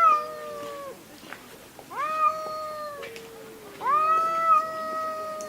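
Two cats yowling at each other in a fight standoff: long drawn-out yowls that rise at the start and are then held. They come one after another, with a lower call overlapping in the middle.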